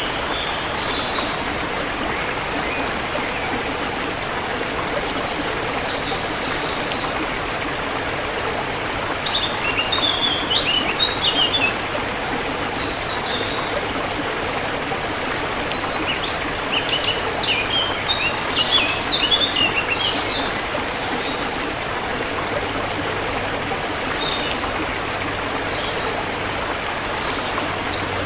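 Forest river water flowing steadily, with small birds chirping in short runs of quick high notes scattered through, busiest about ten seconds in and again around eighteen to twenty seconds in.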